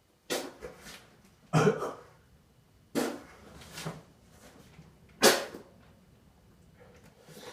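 A man coughing hard four times, a second or two apart, while forcing food down during an eating challenge, with quieter mouth and throat noises between.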